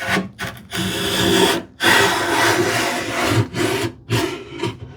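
Hand plane being pushed along the edges of an ash cabinet case to plane them flush. There are two long strokes early on, then a few shorter strokes near the end.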